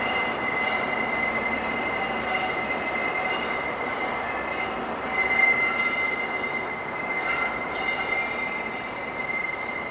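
Network Rail test train hauled by Class 43 HST power cars running past at a distance: steady rail running noise with a continuous high-pitched squeal held throughout.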